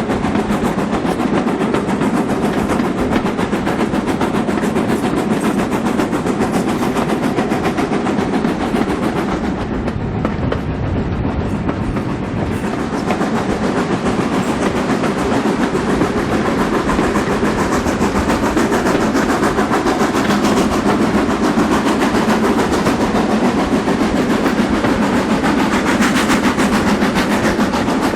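Steam-hauled passenger train behind a GWR Manor Class locomotive, running steadily and heard from aboard a carriage: a continuous rumble with rail noise. The high end thins briefly about ten seconds in.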